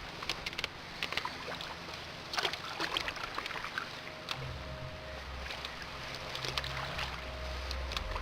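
Canoe paddling: sharp knocks of the paddle against the canoe's hull and water splashing around the strokes. About halfway through, background music with steady low notes fades in under it.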